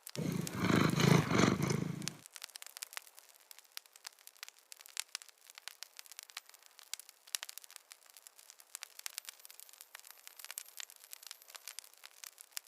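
A rough, growl-like animal sound lasting about two seconds, followed by faint scattered clicks.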